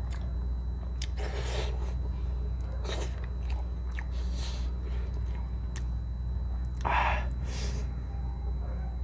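Close-up mouth sounds of a person eating paksiw milkfish with the fingers: wet chewing and lip smacks, with a few short breaths, the loudest about seven seconds in, over a steady low hum.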